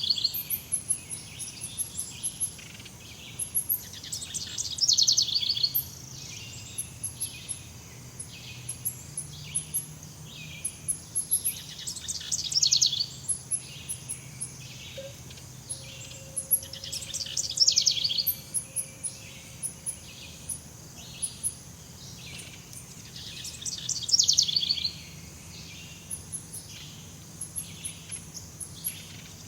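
Jungle ambience of birds and insects: a loud, quick trilled call that slides downward recurs every few seconds, with short chirps between, over a steady high insect drone.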